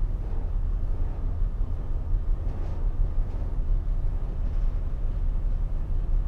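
Steady low rumble of ship engines running, with no distinct events.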